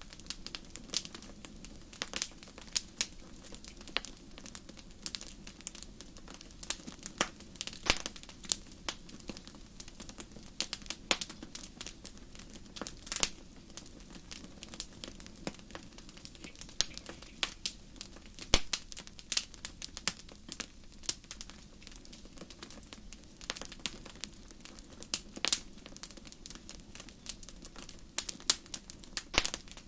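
Wood fire crackling: irregular sharp pops and snaps, sometimes several in a second, over a soft steady rush.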